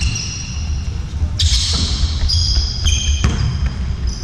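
A ball bouncing on the floor of an indoor sports hall, with sharp knocks about a second and a half, two and a quarter, and three and a quarter seconds in. Between them come high squeaks, over a steady low rumble of the hall.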